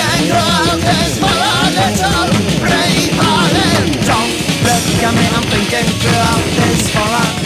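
Rock band recording playing: loud, dense punk-rock style music with a wavering, warbling lead line over a steady low backing.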